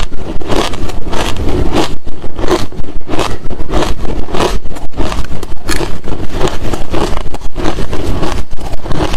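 Close-miked chewing of hard crushed ice and shaved-ice chunks: loud, crunchy bites in an even rhythm, about three crunches a second.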